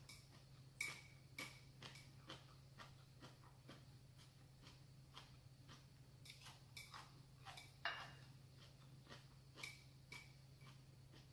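Quiet eating at close range: scattered soft clicks and wet mouth smacks of chewing noodles, with a few sharper clicks of utensils, the sharpest about a second in and again near the eighth second.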